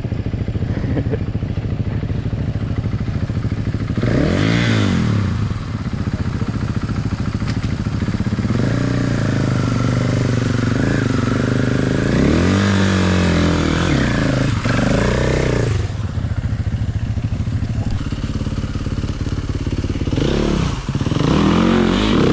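Dirt bike engine running at a steady idle and revved up and back down several times, in a short blip about four seconds in, a longer stretch of revs in the middle, and again near the end.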